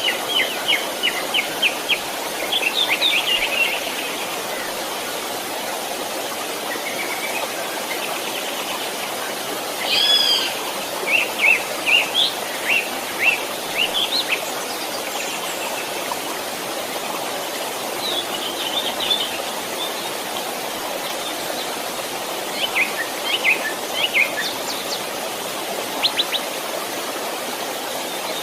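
Steady rush of a stream, with small birds chirping over it in short runs of quick notes: one at the start, another in the middle, and more near the end.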